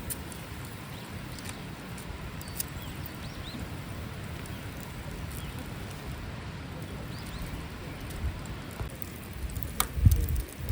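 Outdoor ambience: a steady low rumble like wind on the microphone, with faint short bird chirps every second or two. A few clicks and a louder low bump come near the end.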